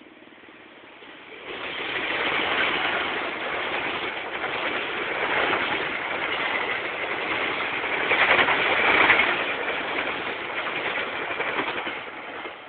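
A passenger train passing close by at speed: wheel-on-rail and running noise comes in suddenly about a second and a half in, is loudest a little past the middle, and falls away just before the end.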